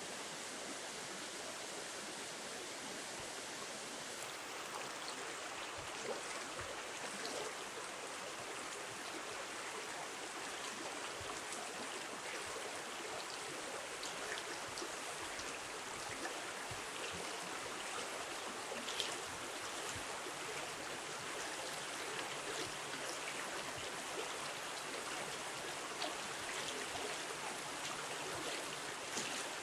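A river running steadily: a constant rush of flowing water, with faint scattered ticks and drips.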